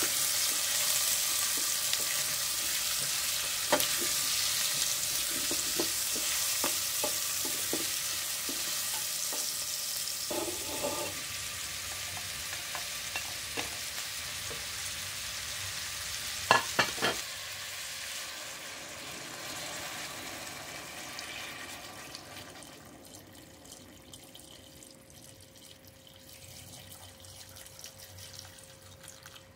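Carrots and onion sizzling in hot oil in a stainless steel pot, stirred with a wooden spoon that knocks against the pot now and then. The sizzle fades away over the second half.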